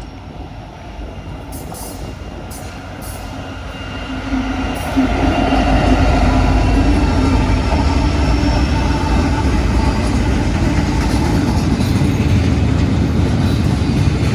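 A freight train passing at speed. It grows steadily louder until the locomotives come by about five seconds in, then a loud, steady rumble and rattle of cars rolling past follows.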